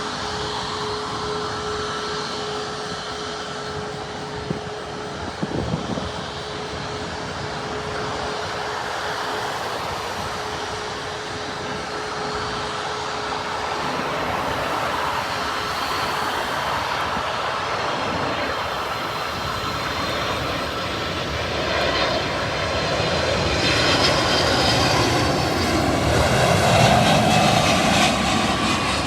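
Jet airliner engines running steadily, growing louder over the last several seconds with a high whine, and a brief knock a few seconds in.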